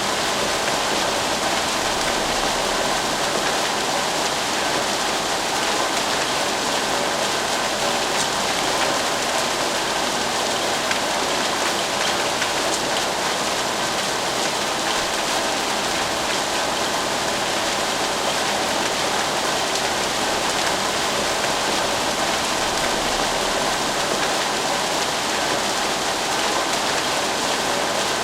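Rain falling steadily, an even hiss of many drops pattering on a surface without let-up.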